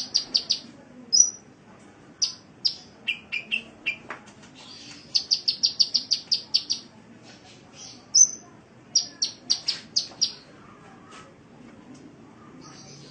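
Sunbird (the Indonesian 'kolibri') singing: quick runs of short, high chirps, about six to eight a second, broken by pauses, with a run of lower-pitched notes a few seconds in and a quieter gap near the end.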